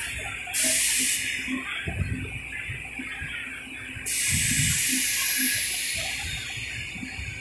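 Compressed air hissing from a DRC1000-series diesel railcar's pneumatic system as the train readies to depart: a short burst about half a second in, then a longer hiss from about four seconds in that slowly fades, with low thuds in between.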